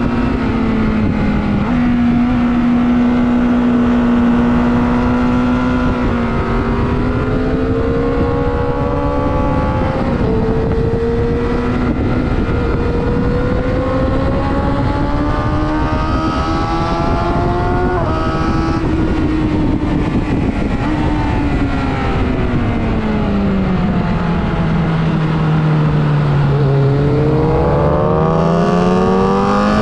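Superbike engine running hard on a race track, its pitch climbing and dropping with throttle and gear changes under a steady rush of noise. About three quarters of the way through the pitch falls low, then climbs again steadily near the end.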